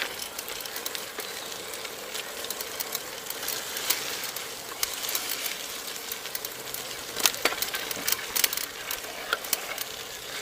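Bicycle in motion: a steady hiss of tyres and moving air with frequent irregular small clicks and rattles from the bike, a few louder ones past the middle.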